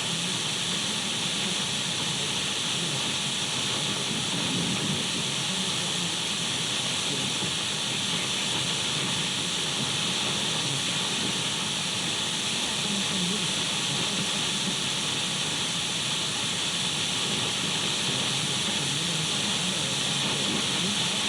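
Radio static: the steady, unbroken hiss of an untuned radio, brightest in the upper middle with a faint rough grain underneath.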